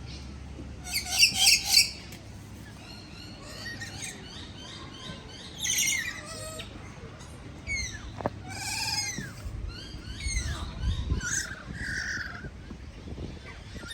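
Several birds calling over one another with chirps, squawks and swooping calls. Three loud harsh calls come close together about a second in.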